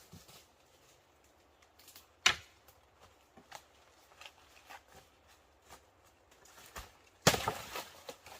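One sharp knock about two seconds in, scattered light clicks and taps, then a short burst of clattering knocks and rustling near the end.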